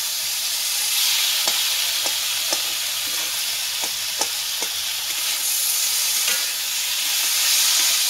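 Potatoes and bilimbi sizzling in oil in a black iron kadai, stirred with a spatula. The steady frying hiss carries several sharp knocks of the spatula against the pan, about six of them through the middle of the stretch.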